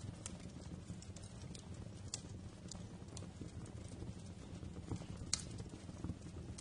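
Wood fire crackling: irregular sharp pops and snaps over a low steady rumble of the flames, with the loudest pop a little past five seconds in.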